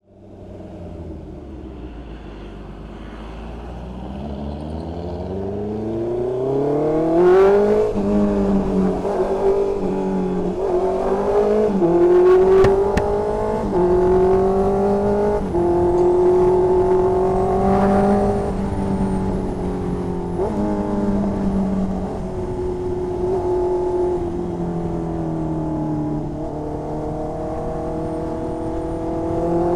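2020 Honda CB650R inline-four engine with an SC Project exhaust. It pulls away with the revs climbing steadily for about the first seven seconds, then rides on through several gear changes, the pitch dropping sharply at each shift and climbing again.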